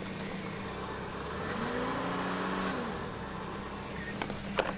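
2000 Chevy Cavalier engine idling after a cold start, with a brief, gentle rise in revs that falls back to idle about two seconds in, and a sharp click near the end.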